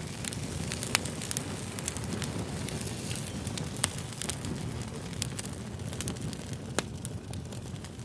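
Fire crackling: a steady low rumble with irregular sharp pops, the loudest about a second in, near four seconds and near seven seconds.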